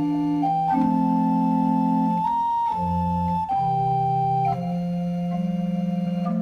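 Organ playing a 16th-century French Christmas carol in held chords, the notes changing every second or so.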